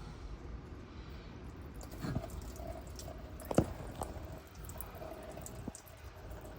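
Evaporust rust remover draining out of an MG TD engine block into a bin, a faint trickle and dripping. A few light clicks, the sharpest about three and a half seconds in.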